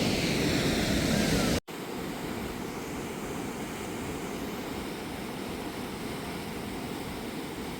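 Steady rush of water pouring over a man-made waterfall structure. The sound drops out for an instant about a second and a half in and comes back quieter.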